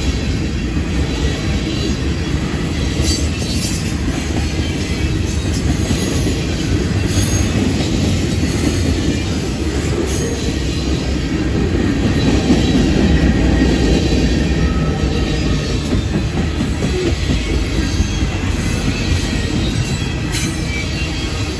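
Freight train cars rolling past on steel rails: a loud, steady rumble of wheels and running gear, with a faint squeal of wheels at times.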